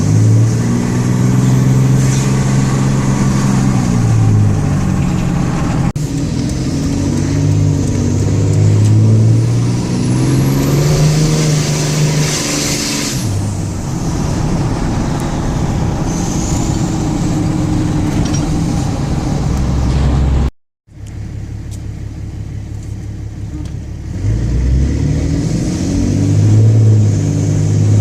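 6.7 Cummins inline-six turbodiesel revved up and let back down, its turbocharger whistle climbing high as the revs rise and falling away as they drop. The sound cuts out for a split second about two-thirds of the way through, then the engine carries on at a steadier level.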